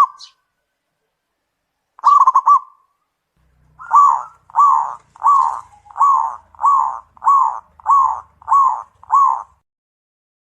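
Zebra dove (perkutut) calling: a short rolled phrase about two seconds in, then a run of nine evenly spaced coos, about one and a half a second, ending about a second before the close.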